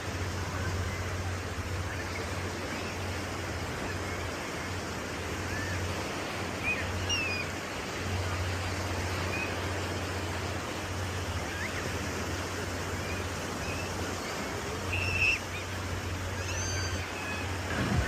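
Ocean surf washing steadily on a beach, an even rushing noise, with a few faint short high chirps scattered through it.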